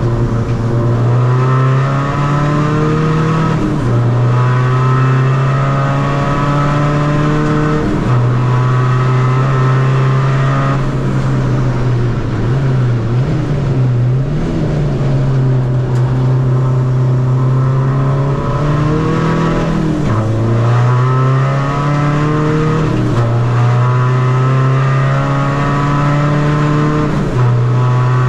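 Tuned 2.0 common-rail diesel engine of a Seat Ibiza FR pulling hard on track, its note climbing and then dropping sharply at each gear change, several times. Around the middle the revs waver up and down before it pulls again.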